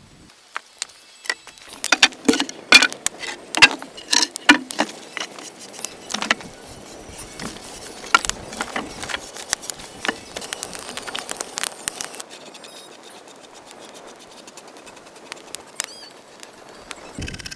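A rapid, irregular run of clicks and knocks, loudest a couple of seconds in, thinning out after about twelve seconds.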